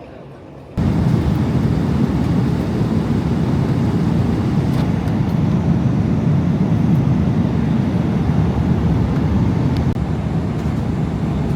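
Steady airliner cabin noise in flight: the even rumble of jet engines and rushing air, starting suddenly about a second in.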